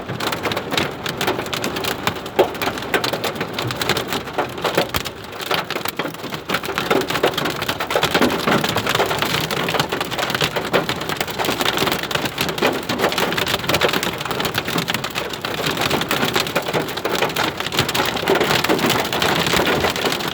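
Heavy rain mixed with hail pelting down: a dense hiss of rain laced with many sharp ticks and clicks of hailstones striking, growing heavier about eight seconds in.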